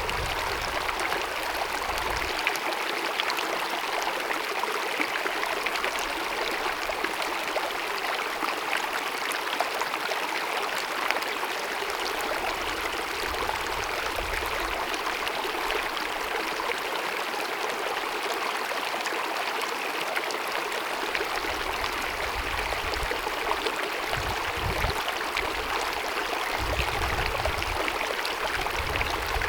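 Small mountain meadow stream babbling and cascading over rocks, a steady, even rush of running water.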